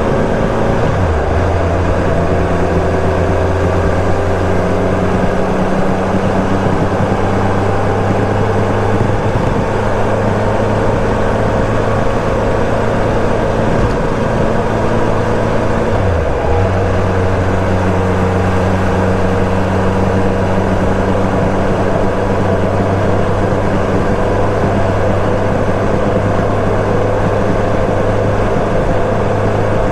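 Kawasaki ZRX1200S inline-four running through a Yoshimura titanium Cyclone exhaust at steady cruising speed, heard from the rider's helmet over a hiss of wind and road noise. The engine note dips briefly about a second in and again about halfway through.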